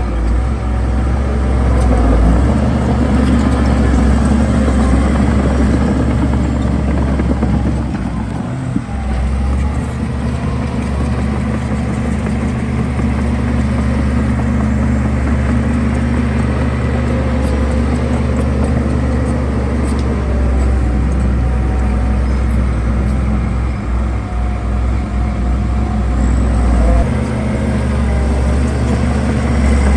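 Heavy diesel engine of earthmoving equipment running steadily as a loud low drone, with a brief drop in level about nine seconds in.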